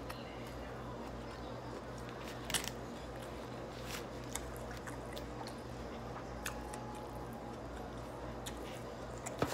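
Mouth chewing food up close, with a few sharp clicks of a plastic fork against the takeout bowl, over a steady low hum.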